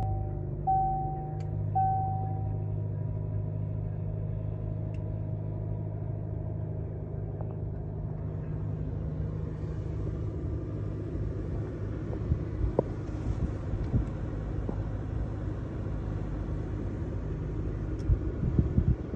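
A 2020 Range Rover Evoque's turbocharged four-cylinder engine idling steadily just after starting, heard from inside the cabin, with a repeating dashboard chime in the first few seconds. A few sharp clicks and knocks sound later on.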